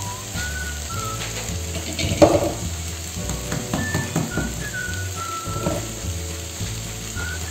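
Chopped chilies, shallots and garlic sizzling in hot oil in a non-stick frying pan, under background music with a whistled melody. A sharp knock sounds about two seconds in, with a few lighter knocks a little later.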